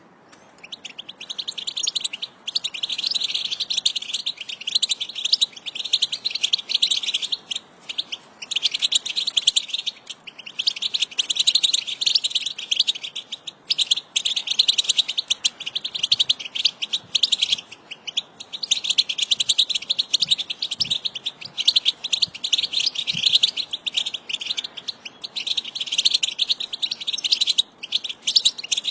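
A group of European goldfinches twittering together in fast, dense chirping phrases a few seconds long, broken by short pauses.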